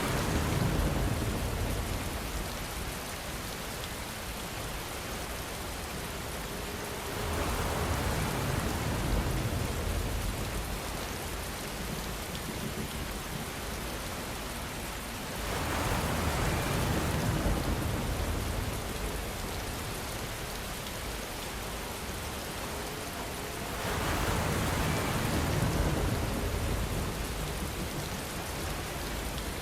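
Steady rainfall with a constant hiss, swelling louder with a deeper rumble about every eight seconds, four times.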